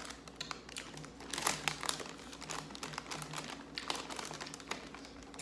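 Plastic grocery packaging crinkling and rustling in irregular bursts as it is handled.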